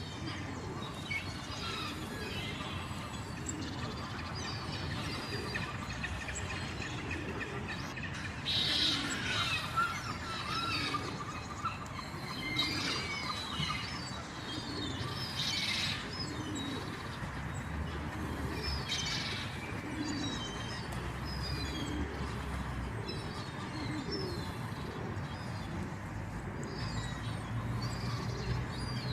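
Birds chirping and calling around a frozen pond: many short high chirps, with a few louder calls standing out. A low rumble builds in the second half.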